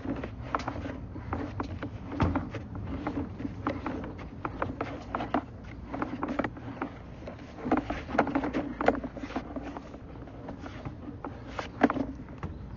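Plumbing inspection camera's push cable and camera head knocking and scraping along a storm-drain pipe as the cable is fed in: irregular clicks and knocks, a few louder ones near the end, over a low rumble.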